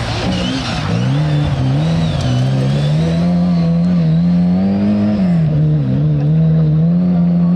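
Rally car engine driven hard on a stage, revving up and dropping back several times as the driver shifts gears and lifts for corners.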